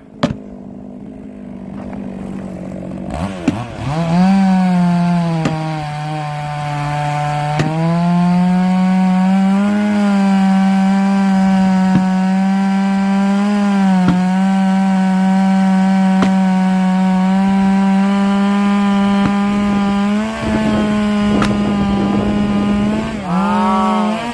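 Two-stroke chainsaw revving up about four seconds in and then held at full throttle cutting through a large log, its pitch sagging a little now and then under load. It drops and revs again near the end.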